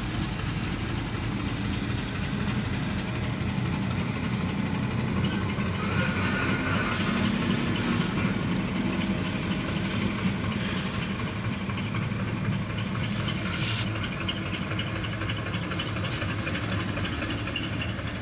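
Freight train of covered grain hopper cars rolling past, a steady rumble of wheels on rail, with a few brief louder flares of wheel noise.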